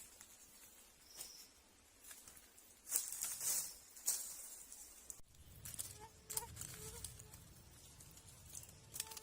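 Intermittent rustles and scrapes from hands working natural materials, coming in short irregular bursts.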